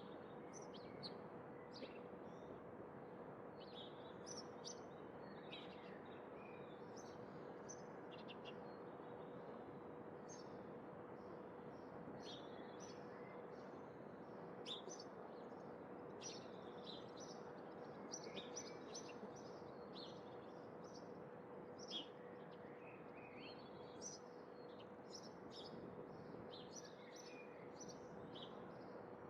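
Small birds chirping: many short, high chirps scattered throughout, over a steady background hiss and a faint constant hum.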